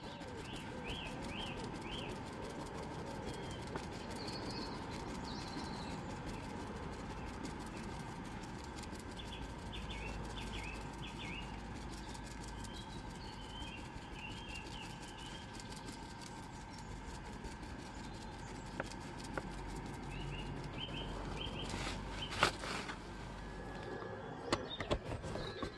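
Small birds chirping in short bursts every few seconds over a steady background hum, with a few sharp knocks near the end.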